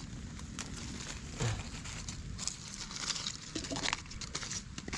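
Scattered rustling and light clicks in dry leaf litter as fallen melinjo seeds are gathered by hand, with a short low vocal sound about one and a half seconds in.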